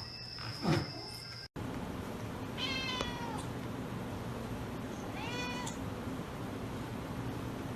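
A domestic cat meowing twice, a couple of seconds apart, each meow dropping in pitch at the end, over a low steady hum.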